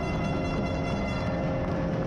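Music played over an ice rink's PA system, several held notes at once, over a steady din of crowd and rink noise.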